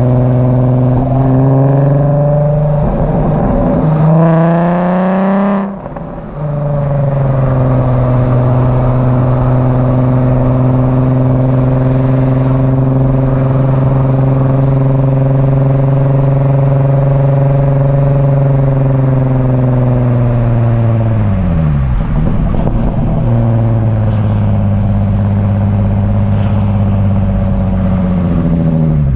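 MK4 Golf R32's 3.2-litre VR6 through a Milltek exhaust, driving. The note climbs in pitch for a few seconds, breaks off briefly about six seconds in, then holds a steady drone. It drops in pitch about three-quarters of the way through and falls again at the end.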